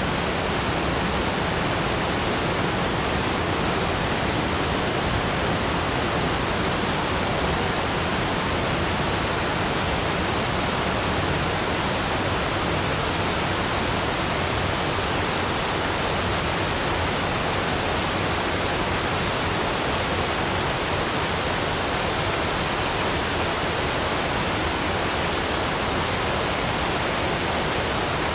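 Waterfalls cascading: a steady, even rushing of falling water with no change.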